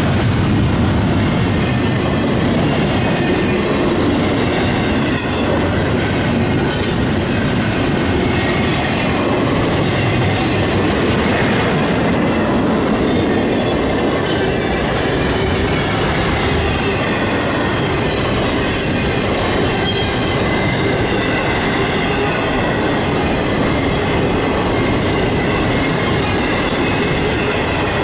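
BNSF intermodal freight train of double-stack container and trailer cars rolling past close by: a loud, steady noise of steel wheels on rail, with thin squealing tones from the wheels running through it.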